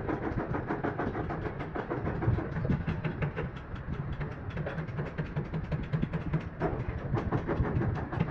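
Rapid, steady tapping of a hammer on a metal truck fuel tank, several knocks a second, over a low rumble: the bent tank being beaten back into shape.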